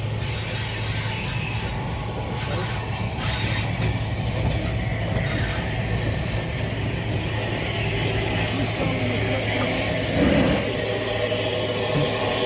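Train on the rails with a high, steady wheel squeal that fades out about seven seconds in, over a steady low hum.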